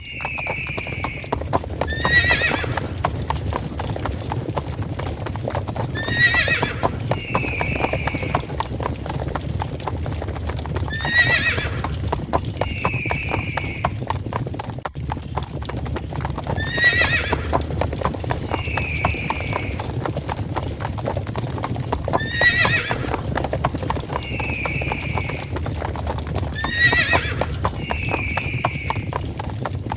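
Stampede sound effect: a herd of hoofed animals, horses among them, galloping with a dense patter of hoofbeats over a low rumble. A horse whinnies about every five to six seconds, and a shorter harsh animal call sounds between the whinnies, the pattern repeating like a loop.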